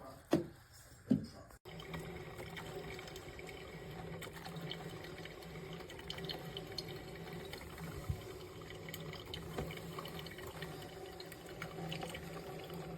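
Water running in a steady trickle, with a few short knocks in the first second and a half.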